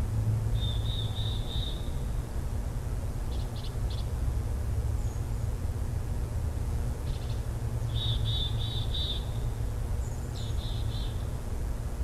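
A bird calling in short runs of rapid, high chirping notes, about four times, over a steady low rumble.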